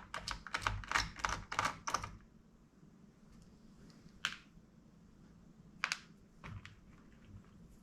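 A quick run of small clicks and taps of plastic and metal laptop parts being handled during disassembly, lasting about two seconds, then three single clicks spaced a second or two apart.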